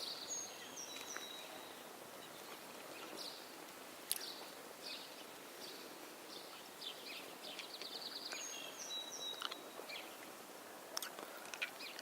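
Songbirds singing over a steady background hiss: many short chirps and trills, with one bird repeating the same phrase, a high note and then a held whistle, near the start and again about eight seconds later.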